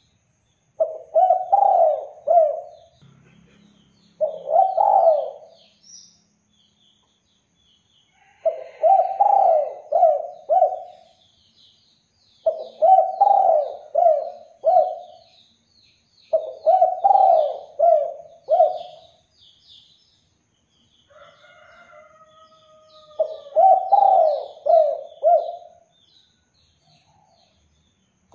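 A spotted dove (derkuku) cooing in repeated phrases of three to four notes, six phrases a few seconds apart. Small birds chirp faintly at a higher pitch behind it, and a brief held call sounds just before the last phrase.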